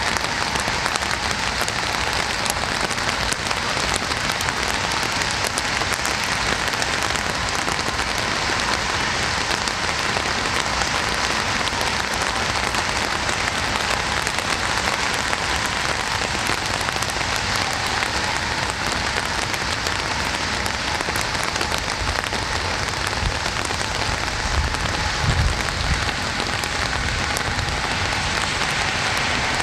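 Rain falling steadily, with a brief low rumble about 25 seconds in.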